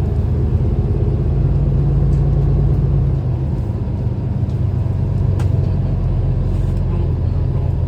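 City transit bus under way, heard from inside: steady low engine and road rumble, easing off slightly about three seconds in, with a few faint clicks and rattles.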